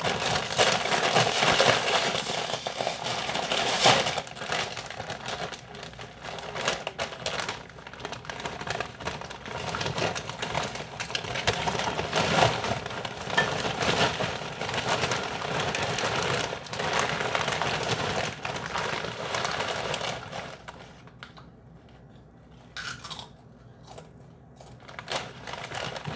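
Crinkling of a Doritos chip bag and the rattle of tortilla chips being poured out. It is a dense crackle that dies down about twenty seconds in, leaving a few scattered clicks.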